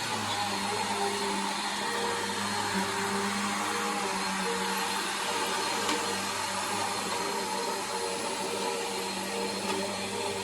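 Bissell PowerForce vacuum cleaner running steadily, its motor hum shifting slightly in pitch over a constant airflow hiss.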